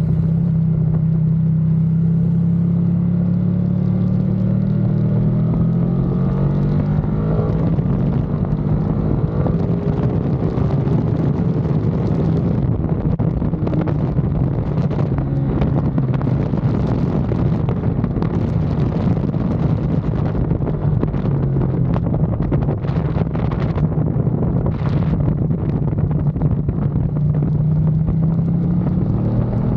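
Ducati Panigale V2's V-twin engine running hard on track with wind noise, the revs climbing about six to eight seconds in and again near the end.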